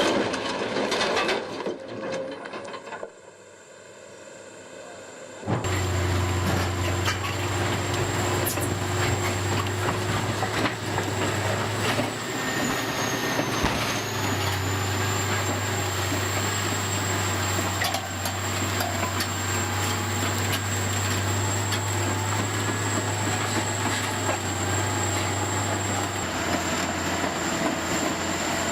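A large vehicle or machine running steadily, with a low engine hum, a constant high whine and rumbling, rattling noise. It cuts in abruptly about five seconds in, after a brief stretch of different, louder sound that dies down.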